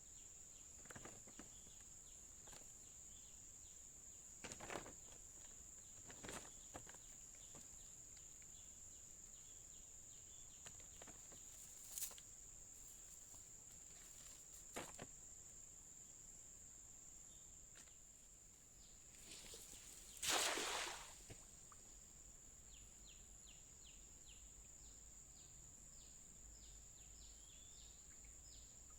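Faint outdoor ambience: a steady high-pitched whine with scattered soft rustles and steps, one louder rustle about twenty seconds in, and a run of quick chirps near the end.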